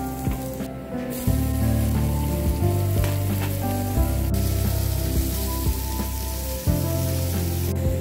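Food frying and sizzling in hot oil over background music; the sizzle starts about a second in and cuts off sharply near the end.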